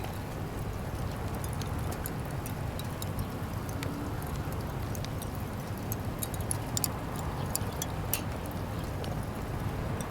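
Fire crackling in a campfire grill stand: irregular sharp crackles and pops over a steady low rumble.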